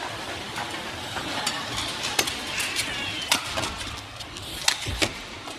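Badminton rally over steady arena crowd noise: sharp racket strikes on the shuttlecock, about one a second, with the loudest hits near the end, and brief shoe squeaks on the court.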